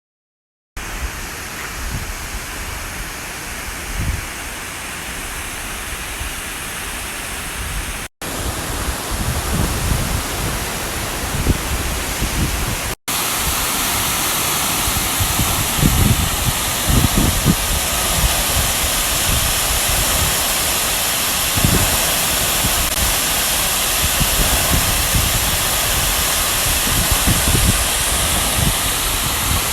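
Rushing water of a creek, a steady loud hiss with irregular low rumbles underneath. It breaks off for an instant twice and is a little louder after the second break.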